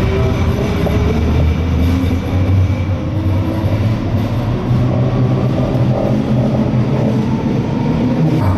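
A train running on rails: a steady rumble with a faint steady whine above it.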